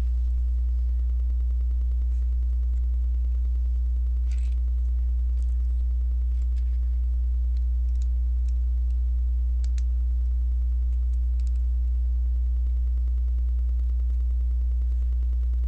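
Loud steady low electrical hum, with a few faint clicks of Lego bricks being handled and pressed together.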